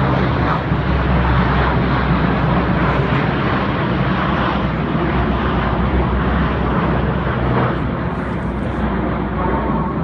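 Large transport aircraft's engines droning steadily overhead, a continuous low hum with a rushing noise over it.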